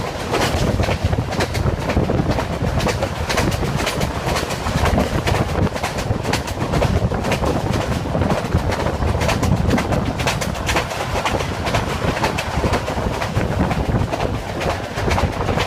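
Passenger train running on the rails, a steady loud rumble with constant clattering of the wheels and carriages.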